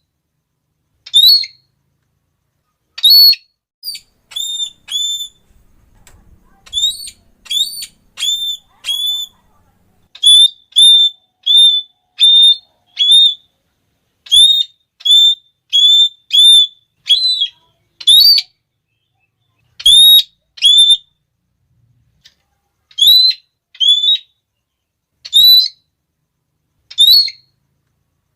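Red-cheeked parrot giving its shrill, repeated "klee" call: short, sharp notes, some single and some in quick runs of three or four, about two a second.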